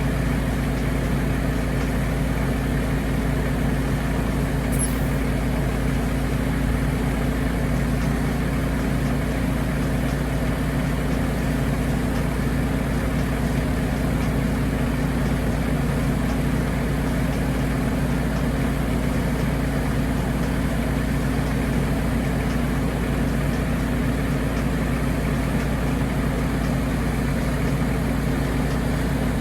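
A vehicle engine running steadily at an unchanging speed, with a brief high squeak about five seconds in.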